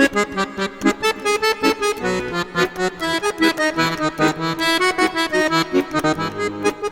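Accordion music: a lively tune of quick, short notes over a steady bass.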